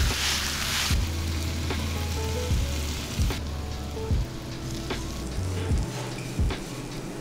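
Pancake batter and vegetables frying on a hot electric griddle plate, a steady sizzle that is strongest in the first second and then goes on more softly. Background music with a soft beat plays underneath.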